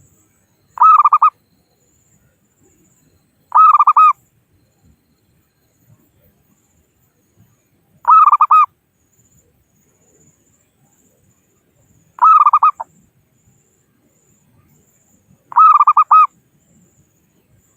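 Local perkutut (zebra dove) cooing as a lure call to draw rivals: five short phrases of quick staccato coos, a few seconds apart.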